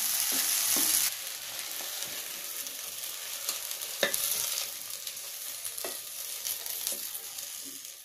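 Chopped okra sizzling in oil in a non-stick pan, with a few scrapes of a spatula against the pan as it is stirred and moved out. The sizzle drops sharply about a second in and then slowly fades.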